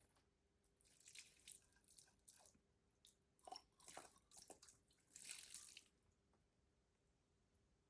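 Near silence, with faint scattered clicks and short rustling noises between about one and six seconds in.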